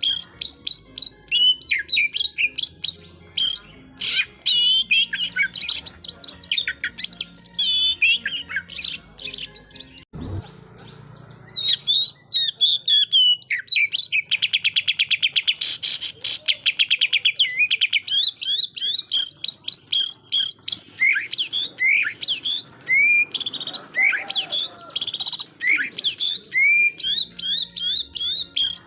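Oriental magpie-robin (kacer) singing a fast 'tembakan' song of rapid, varied chirps and whistles, with a brief pause about a third of the way in and a fast rattling trill in the middle.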